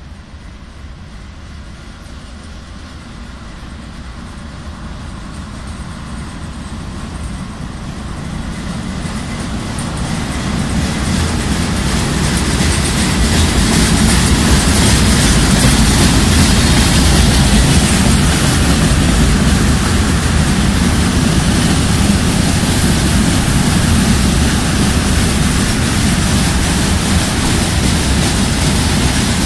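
A VL80T twin-section electric locomotive hauling a freight train approaches, growing steadily louder over about fourteen seconds, and passes. Then its tank cars roll by with a steady, loud rumble of wheels on rails.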